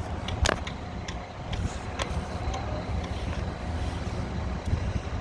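Steady low rumble with a few short, sharp clicks or knocks scattered through it.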